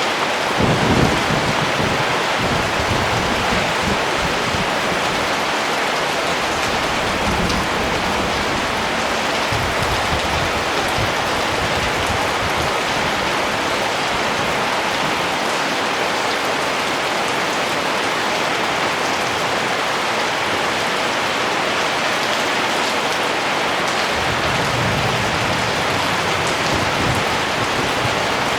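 Steady rain falling, an even wash of drops. A low rumble comes about a second in and again near the end.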